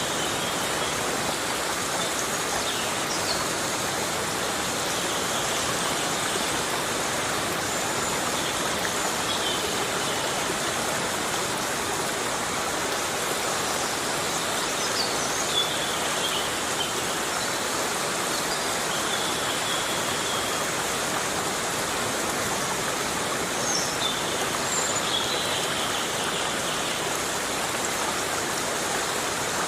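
Heavy rain falling steadily in a forest, a dense, even hiss. A few faint, short, high-pitched chirps sound here and there.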